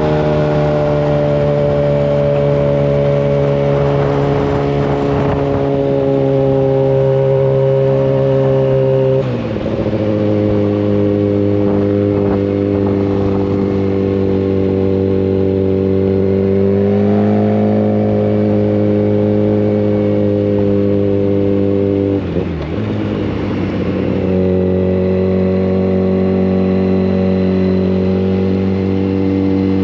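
Yamaha FZ1 Fazer's inline-four engine through a Mivv GP exhaust with the dB killer removed, running loud at steady revs while riding. Twice, about a third and about three quarters of the way in, the note dips briefly and drops to a lower pitch, then holds steady again.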